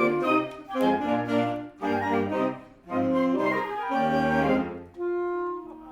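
Concert wind band of clarinets and brass playing a passage in short, accented phrases of chords separated by brief breaks, ending on a softer held chord.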